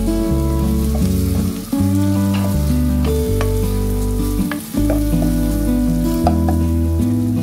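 Shrimp, chopped onion and garlic sizzling steadily in a non-stick pot while a wooden spatula stirs them, with small scrapes and clicks. Background music of slow, held chords plays over it.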